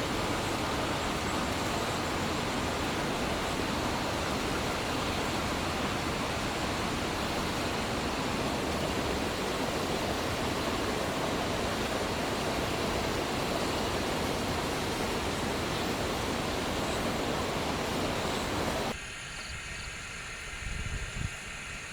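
A steady, even rushing noise that cuts off abruptly about nineteen seconds in, leaving a quieter background with a few low thumps.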